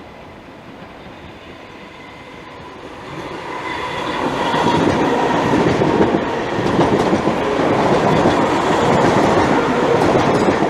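A London Overground Class 315 electric multiple unit pulling in, growing steadily louder from about three seconds in, its wheels clattering over the rail joints with a steady whine running through.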